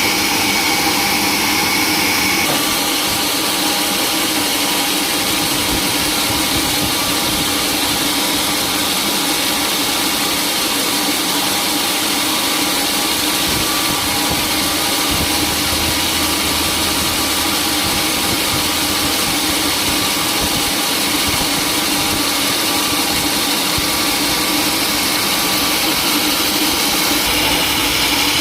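Sawmill saw running steadily with its machinery drone. A higher-pitched cutting tone stops about two and a half seconds in and comes back near the end, as the blade goes from cutting wood to running free and then back into the wood.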